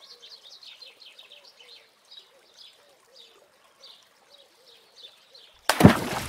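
Birds chirping and calling: repeated short high chirps over faint low calls. A loud rushing noise breaks in suddenly near the end.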